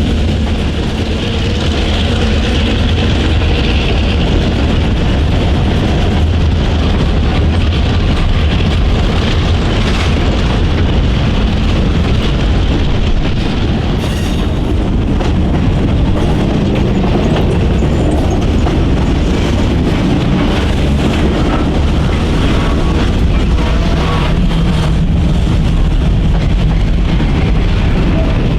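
Manifest freight train passing at close range: a steady, loud rumble of wheels on rail.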